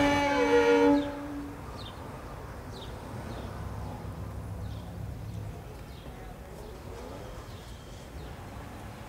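A held musical note sounds for about the first second and a half and then stops. After it comes the steady low rumble of a car's cabin, with faint, short high chirps like birds outside.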